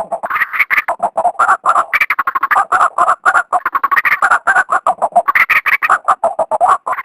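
Female white-breasted waterhen calling in a rapid, harsh string of short notes, several a second, without a break.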